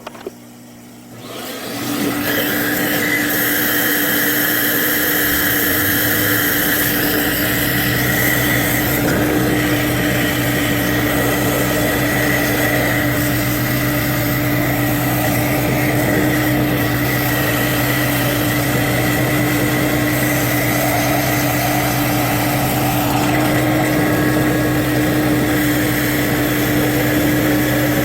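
A couple of clicks, then a motor starting up about two seconds in and running steadily at a constant pitch.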